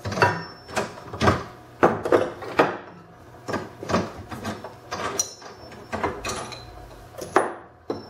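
Metal lathe fittings being worked loose and taken off by hand: a string of irregular clicks and clanks, about one or two a second, some with a brief metallic ring.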